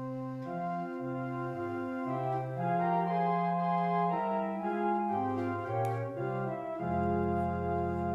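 Organ playing the introduction to a hymn: sustained chords over a moving bass line, ending on a long held final chord near the end.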